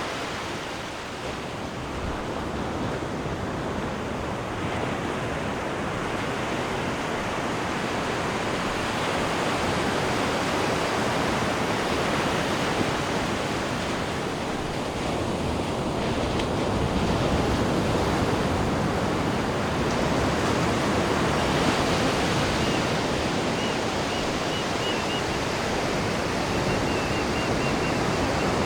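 Sea water churning and rushing in a cruise ship's wake behind the stern, a steady rushing that slowly swells and eases.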